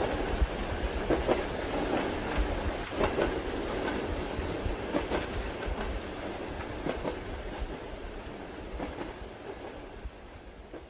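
Train running on rails heard from inside a compartment, steady rumble with the clickety-clack of wheels over rail joints and rain against the window, fading out gradually toward the end.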